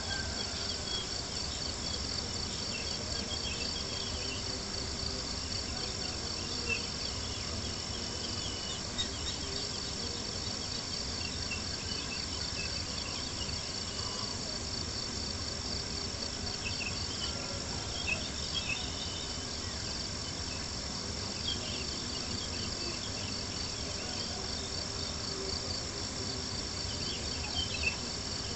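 Crickets chirping in a steady, continuous chorus of rapid high pulses, with a few faint pops from a crackling campfire.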